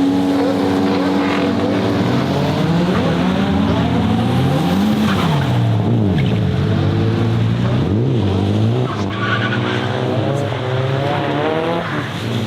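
Turbocharged Toyota 2JZ straight-six in a Nissan Silvia S15 revving hard, its pitch rising and falling several times in the middle, with tyres squealing as the car drifts.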